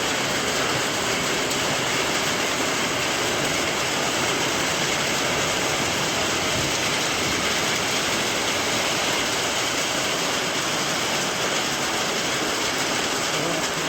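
Heavy rain pouring down in a thunderstorm, a steady rushing hiss that holds at one level throughout.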